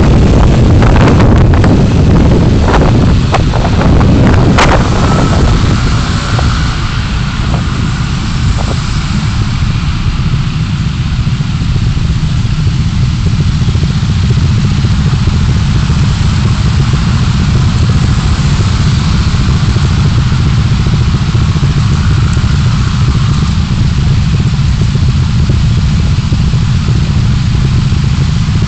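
Steady low rumble of a car on the move, engine and tyre road noise picked up by a dashcam. There are a few sharp knocks or rattles in the first few seconds.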